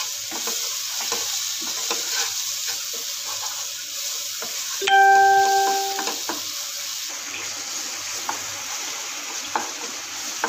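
Onion and cashew paste frying with a steady sizzle in a nonstick pan, stirred and scraped with a wooden spatula. About five seconds in, a single bell-like tone rings for about a second over the frying and is the loudest sound.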